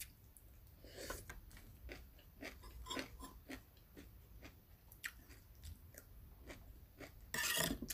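Close-up chewing of a raw long-bean salad, with soft crunches and wet mouth clicks at irregular intervals. A louder noisy burst lasting about half a second comes near the end.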